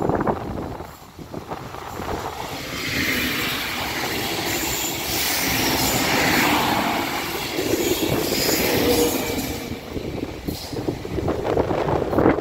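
An erixx Alstom Coradia LINT diesel multiple unit passing close by at speed: the rumble of wheels on rail and the engines builds from about two seconds in, is loudest in the middle with a few brief whines, and fades away near the end.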